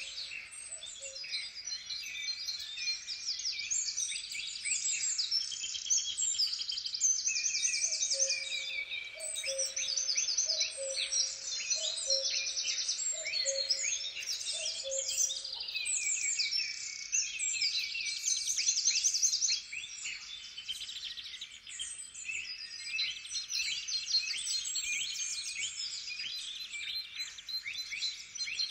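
Dense chorus of many small songbirds singing, trilling and chirping over one another. In the middle, a lower two-note call repeats about once a second for several seconds.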